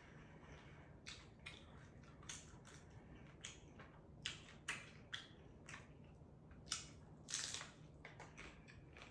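Close-up mouth sounds of someone eating a taco: a string of short, irregular crisp clicks and crunches, loudest around five and seven seconds in, over a faint steady low hum.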